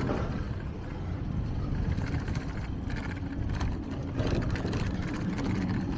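Low rumble of wind on the microphone and bicycle tyres rolling over wooden walkway panels, with a few faint knocks from the bumps.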